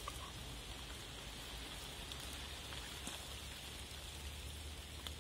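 Steady patter of light rain, with a low, even rumble underneath.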